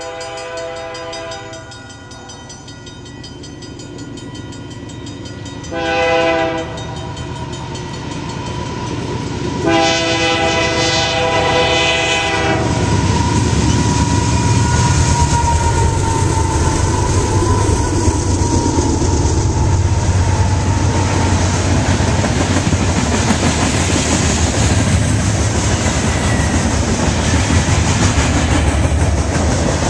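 A GE diesel freight locomotive's horn sounds the end of a grade-crossing signal: the tail of one blast, a short blast about six seconds in, and a long blast about ten seconds in. Then the locomotives and the freight cars pass close by in a loud, steady rumble.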